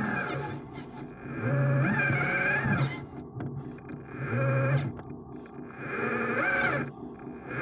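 Electric motors of RC construction machines whining in three bursts, the pitch stepping up and down as the machines are worked, with quieter gaps between.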